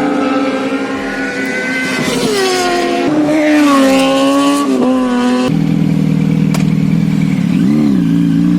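Superbike engines revving and passing, their pitch rising and falling, with one dropping away as it goes by. About halfway through the sound cuts abruptly to a steadier, lower engine note that revs briefly near the end.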